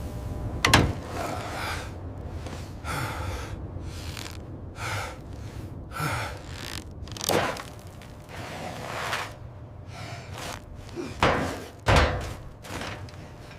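A series of heavy thunks and knocks with scraping between them, the loudest about a second in and two more close together near the end.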